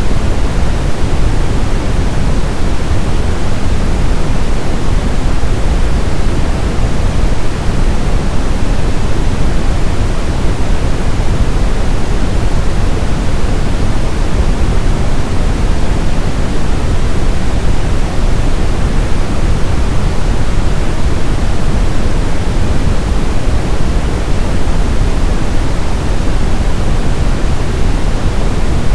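Brown noise: a steady, loud, even hiss weighted towards the low end, like a deep rumble, with no change throughout.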